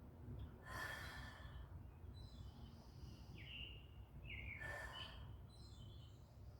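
Two slow, breathy exhales about four seconds apart, taken while holding yoga poses. Between them a bird gives a couple of short chirps.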